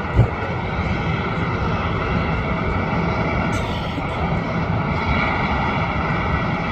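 Jet airliner engines running with a steady roar, and a brief low thump just after the start.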